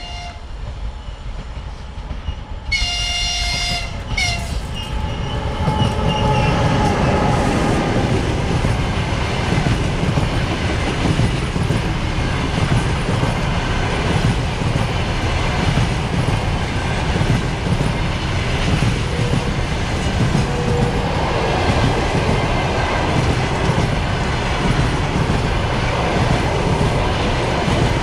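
An EP20 electric locomotive's horn sounds: one blast ends just as the sound begins, a second blast lasting over a second comes about three seconds in, and a short toot follows. Then the passenger train passes close by, with a steady rumble and the clatter of the coaches' wheels over the rails.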